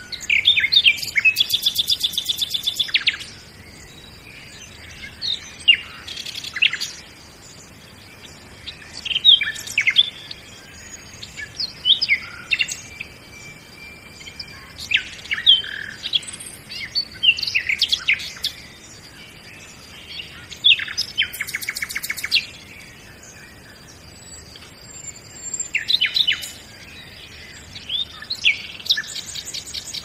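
Birds calling, with clusters of short chirps and whistled notes every few seconds and three rapid trills, one near the start, one about two-thirds through and one near the end.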